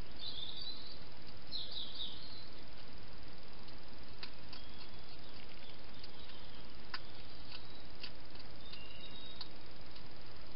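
Faint high chirps of small birds over a steady hiss: two short chirpy bursts in the first two seconds, then scattered brief calls, with a few sharp clicks among them.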